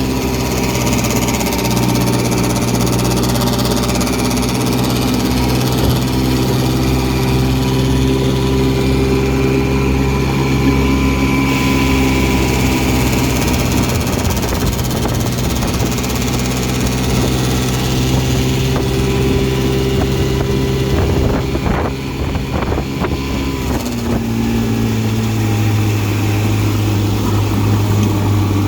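1959 Evinrude Sportwin 10 hp two-cylinder two-stroke outboard running a boat under way, with a heavy rattle from its engine hood. A few knocks come about three-quarters of the way through, and the engine then settles to a lower speed.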